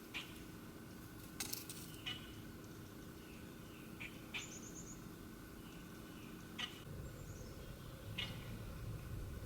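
Wild birds calling: short, sharp chip notes every second or two, a quick high twitter about halfway through, and a falling high trill near the end, over a steady low background rumble.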